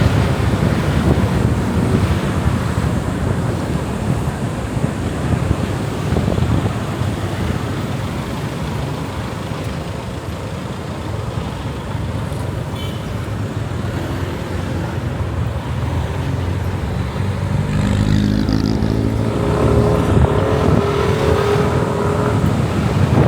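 Motorcycle ride through city traffic: wind buffeting the microphone over the rumble of the engine and road noise. Near the end an engine note climbs in pitch as a vehicle speeds up.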